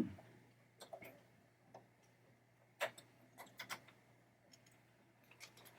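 Scattered faint clicks and taps of small metal parts being handled and fitted together during reassembly of a pinball trap door mechanism, with the loudest tap about three seconds in.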